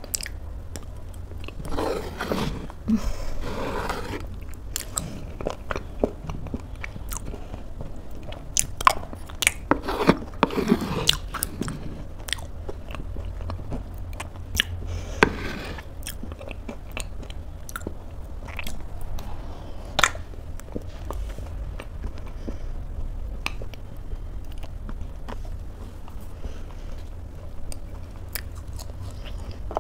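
Close-miked chewing and biting of a thick oatmeal bowl with almonds and chocolate cookie pieces: wet mouth sounds, occasional crunches and many sharp clicks.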